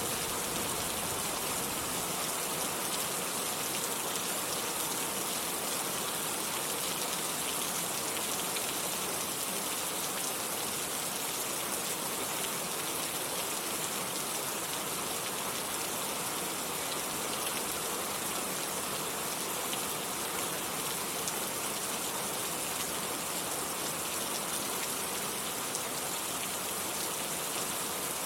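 Steady rain falling with an even, unbroken hiss. The last of a low thunder rumble fades out in the first moment.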